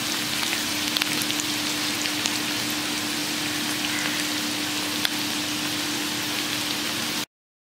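Chopped onion, garlic, green chilli and curry leaves sizzling steadily in hot oil in a wok, with scattered small pops and crackles and a faint steady low hum underneath. The sound cuts off abruptly near the end.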